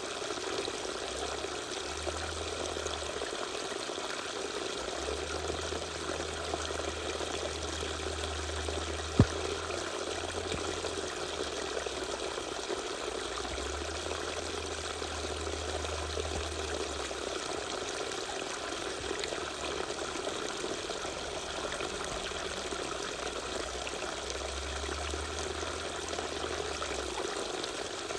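Small waterfall: water pouring and trickling steadily, with one sharp click about nine seconds in.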